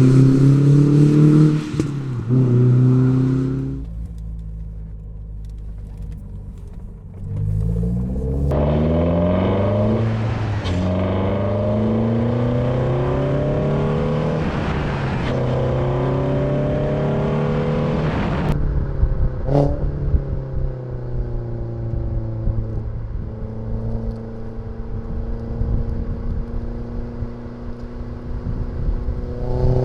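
Renault Sandero R.S.'s 2.0-litre four-cylinder engine under hard acceleration. It revs high, drops off a few seconds in, then climbs again through the gears in rising pulls broken by upshifts, before settling to a steadier, lower note.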